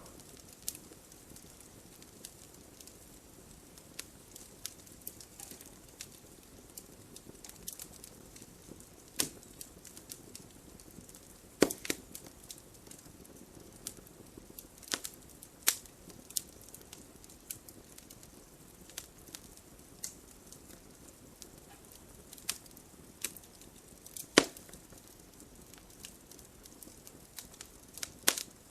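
Wood fire burning with a soft steady hiss and scattered sharp crackles and pops, a few louder snaps among them.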